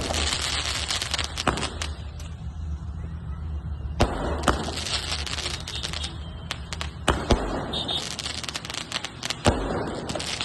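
A 120-shot skyshot fireworks cake firing: a sharp bang every two to three seconds, with steady crackling from the bursts in between.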